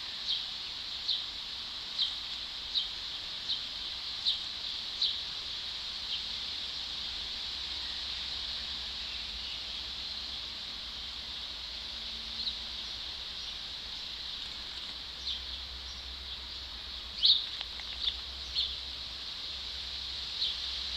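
A bird calling: short, sharp, high notes repeated roughly every three quarters of a second, then breaking off, then returning in a looser series with the loudest note about two thirds of the way through. A steady high-pitched hiss of outdoor background runs underneath.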